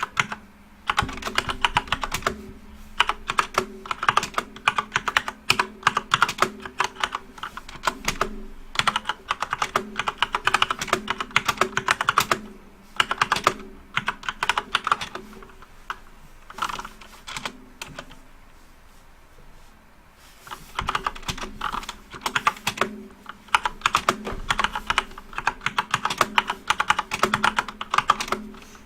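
Fast typing on a backlit computer keyboard: quick runs of key clicks, with a lull of a few seconds about two-thirds of the way through.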